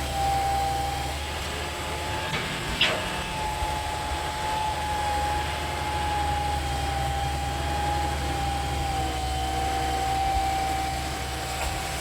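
Excavator engine running steadily under a constant high whine, with one sharp knock about three seconds in.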